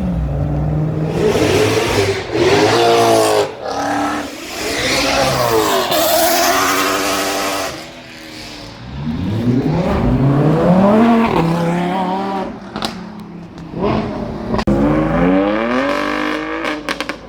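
Car engine revving hard several times, its pitch climbing and dropping, with a rushing noise across the first half.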